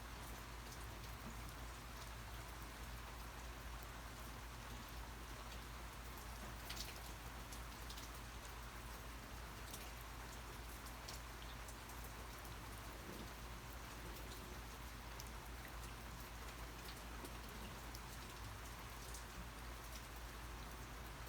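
Steady rain falling, with scattered drops ticking on a surface above an even hiss.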